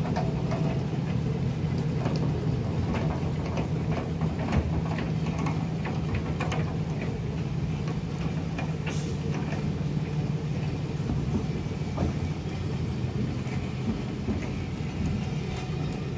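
Railway vans and a coach rolling slowly past during shunting, with a steady low engine drone and scattered clicks and creaks from wheels and running gear. A brief hiss comes about nine seconds in.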